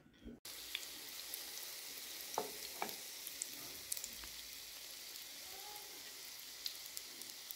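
Chicken-and-lentil shami kebabs sizzling in hot oil as they shallow-fry in a pan: a steady hiss with scattered crackles and a few louder clicks.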